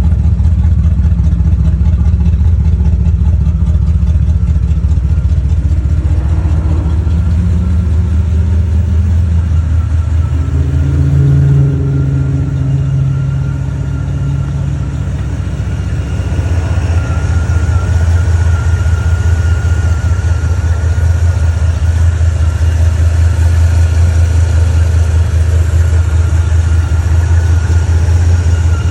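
1973 Buick Centurion's V8 idling steadily after a cold start. Around ten seconds in its note shifts and dips slightly for a few seconds, then settles back, with a faint whine coming in.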